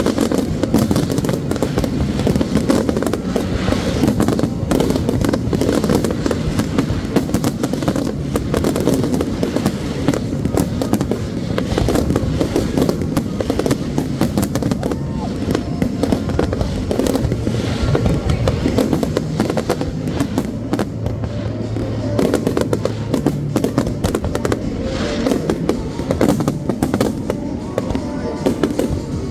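Fireworks display: a continuous rapid run of bangs and crackles from bursting shells, with no pause.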